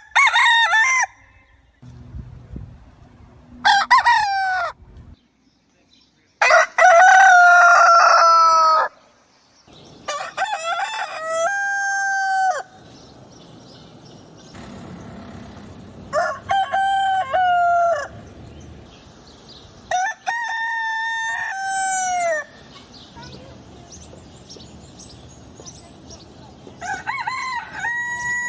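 Rooster crowing cock-a-doodle-doo, about seven crows a few seconds apart, the longest about 7 seconds in.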